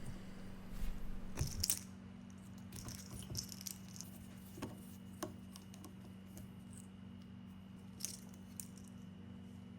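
Faint scattered clicks and light rattles of wiring connectors being pulled off a Gaggia Classic espresso machine's boiler, over a steady low hum. The clicks bunch in the first couple of seconds and come twice more near the end.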